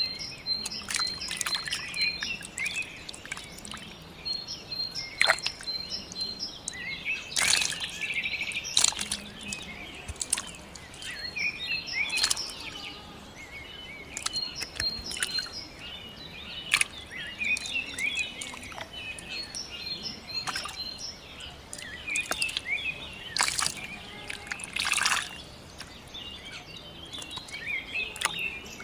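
Small birds chirping and twittering, with runs of quick repeated high notes, broken now and then by a brief noisy burst.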